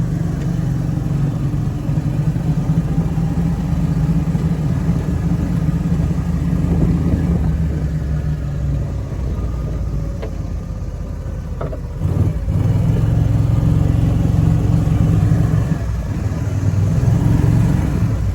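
Snapper Trail Cruiser's engine running under load as it is driven, easing off about nine seconds in and pulling up again around twelve seconds, with a brief dip and rise near the end. A few short knocks come through the drive partway in.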